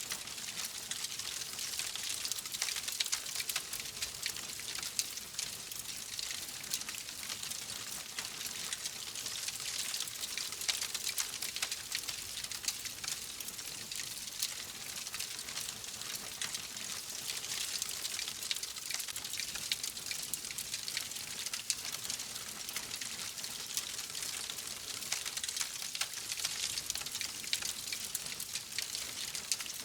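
Wood fire crackling: a steady hiss dotted with many small, sharp pops.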